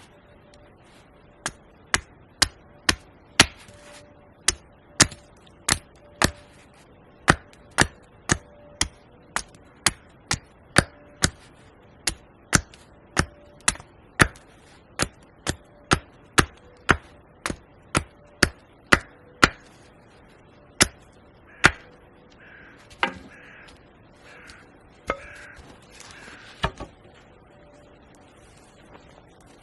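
Wood being chopped with an axe: sharp, regular strikes about two a second that stop about twenty seconds in. A few crow-like caws follow near the end.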